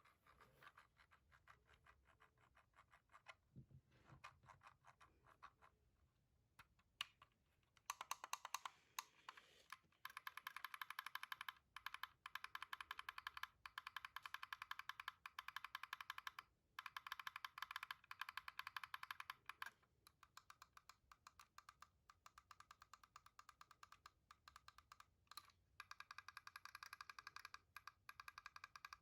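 Fingers tapping and clicking on gaming keyboard and mouse: scattered single clicks at first, then from about eight seconds in long runs of very rapid, evenly spaced clicks with short breaks between them.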